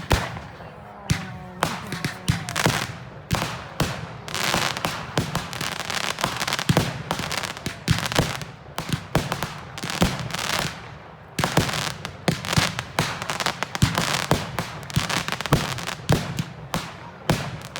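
Fireworks display: a rapid, irregular run of bangs and crackling explosions, several a second, with no pause.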